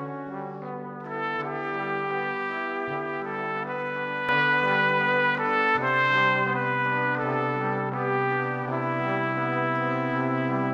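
Slow brass ensemble music: trumpets and trombones holding long, sustained chords that change every few seconds, with no drums.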